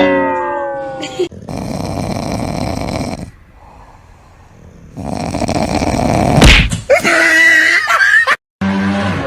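Dog vocalising across several short clips, opening with a falling whine.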